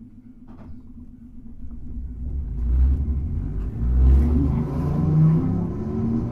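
Hankai Tramway car 351 pulling away: quiet for about two seconds, then the low rumble of its wheels and traction motors builds, and a motor whine climbs in pitch as the tram gathers speed.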